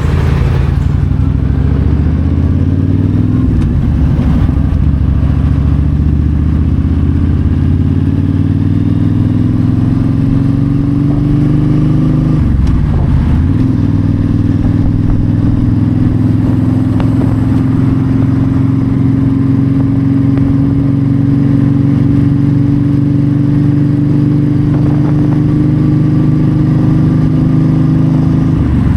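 Yamaha V-Star 1300's V-twin engine riding on the road, pulling up through the gears: the pitch climbs, dips briefly at shifts about four and thirteen seconds in, then holds steady at a cruise, with another shift at the very end. A rush of wind and road noise runs underneath.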